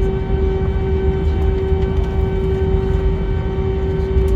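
Airbus A321 jet engines heard from inside the cabin, running steadily. A constant whine sits over a deep rumble, with no change in pitch.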